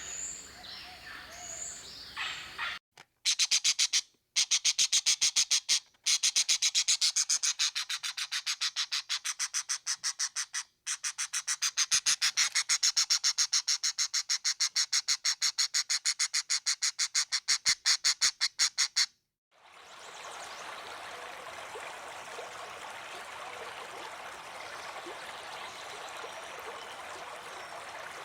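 A few bird chirps, then a long, loud train of rapid, evenly spaced pulsed animal calls, several a second, which stops abruptly about 19 seconds in. After it comes the steady rush of a stream.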